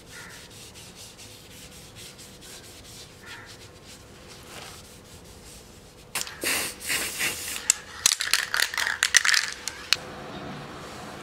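A cloth rubbing polish into a wooden knife handle: soft, even strokes at first, then louder, quicker rasping strokes from about six seconds in.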